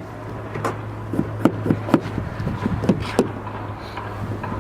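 Scattered light knocks and clicks from the car's interior fittings being handled, over a steady low hum.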